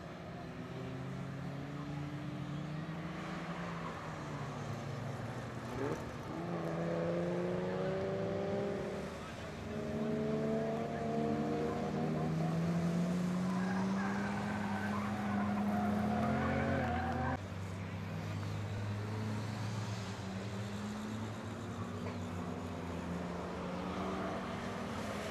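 BMW cars' engines revving hard on a race circuit, their pitch climbing under acceleration and dropping back at each gear change or lift-off. The sound is loudest in the middle and drops suddenly about 17 seconds in.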